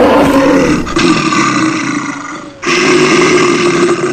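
A bear roaring loudly in long, drawn-out roars, with a short break about two and a half seconds in.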